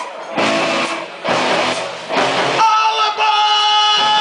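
Live rock band playing loudly: heavy chords in roughly one-second blocks, then a long held note from about two and a half seconds in.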